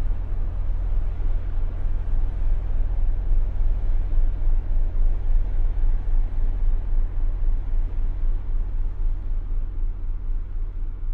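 Steady low hum with an even rushing hiss over it, with no music playing; typical of hum and surface noise from a turntable playback chain. The hiss thins slightly near the end.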